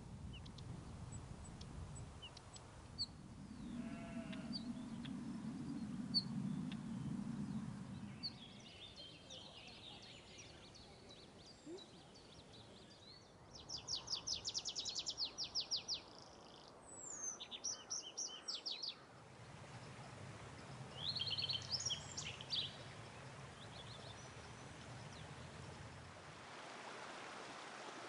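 Wildlife sounds: a short animal call about four seconds in, then several bursts of high, rapid chirping trills over a quiet outdoor background.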